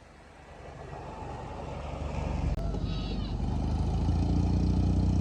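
Engine of a restored jeep running, growing steadily louder over the first three seconds and then holding steady.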